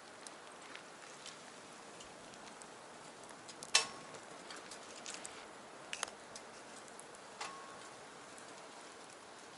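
Wood fire crackling in a small stainless-steel box stove: scattered small crackles over a faint steady hiss. The loudest pop comes nearly four seconds in, with further sharp pops about six seconds in and a little after seven.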